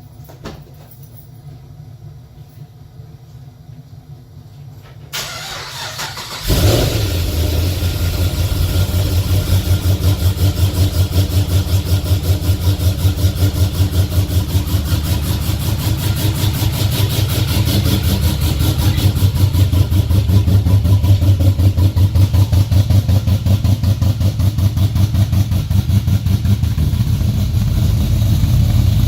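An engine started from cold: a quiet lead-in, a rise in level about five seconds in, then it catches about six and a half seconds in. It settles into a steady, evenly pulsing cold idle.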